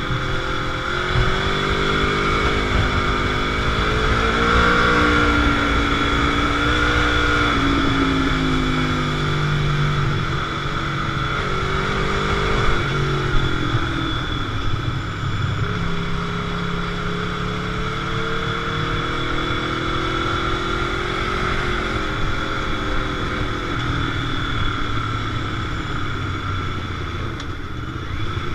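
Motorcycle engine heard on the move from an onboard camera, its revs rising and easing off several times as the bike accelerates and rolls off, under steady wind and road noise.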